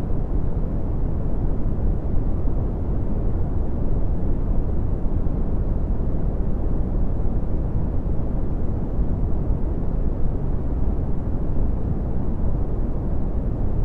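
Steady red (Brownian) noise: a continuous deep rumbling hiss with its energy in the bass, falling away toward the treble, with no changes.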